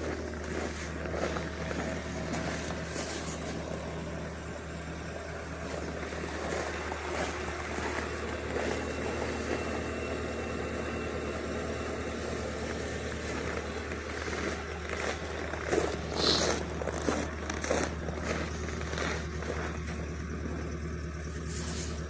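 Vehicle engine idling steadily after a cold start at −29 °C. Irregular scraping and crunching noises sound over the idle and are loudest about sixteen seconds in.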